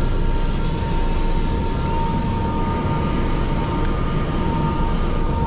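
Helicopter cabin noise in flight: a steady, loud drone with a thin, steady high whine running through it.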